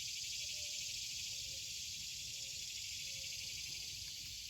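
Steady, high-pitched chirring of an outdoor insect chorus, a fine fast pulse with no breaks.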